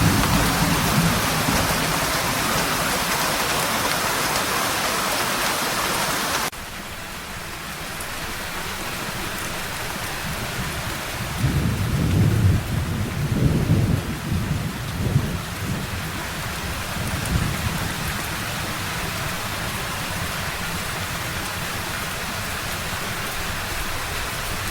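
Heavy rain falling in a steady hiss; about six and a half seconds in it drops suddenly to a softer rain. Thunder rolls in low rumbles through the middle, with a last fainter rumble a little later.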